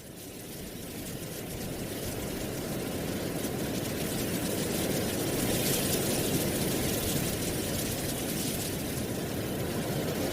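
Wind blowing through dry autumn leaves: a steady low rumble of wind under a higher rustling hiss of leaves, fading in and growing louder over the first few seconds.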